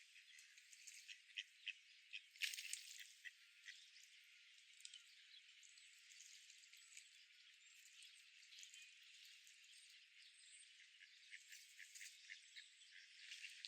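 Faint outdoor park ambience: a steady hiss with scattered short chirps and ticks. They are busiest in the first few seconds, with one louder crackle, and again near the end.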